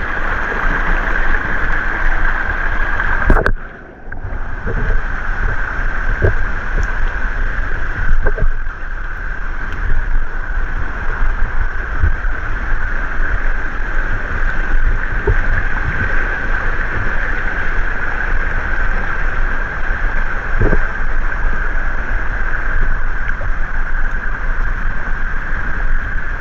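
Steady rush of a river flowing over rocks, breaking off briefly about three and a half seconds in, with a low rumble and occasional knocks on the microphone.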